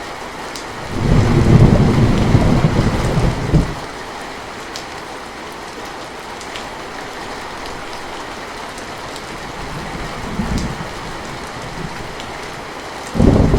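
Steady rain with scattered drop ticks, and thunder rumbling: a loud low roll starting about a second in and lasting about two and a half seconds, a fainter rumble about ten seconds in, and another loud roll beginning just before the end.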